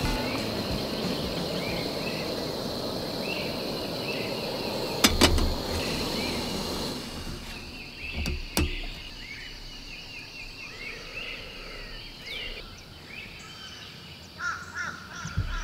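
Canister camp stove burner hissing under a kettle, cutting off about seven seconds in as the valve is turned, with a few sharp clicks around it. A bird calls repeatedly throughout.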